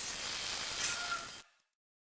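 Workshop machinery running: a steady hiss with a thin high whine over it, which cuts off abruptly about one and a half seconds in.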